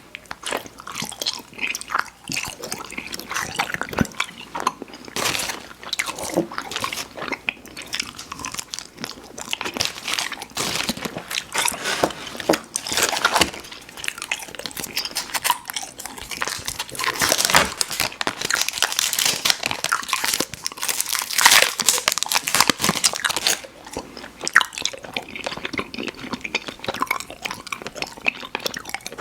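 Close-miked mouth chewing and smacking on chewy fruit candy: a steady run of sticky, wet clicks and smacks, louder in stretches about halfway through and in the latter part.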